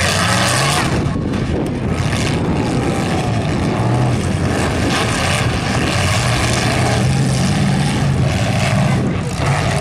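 Engines of several full-size demolition derby cars running hard and revving as they drive around the dirt arena, a loud, steady mass of engine noise that rises and falls.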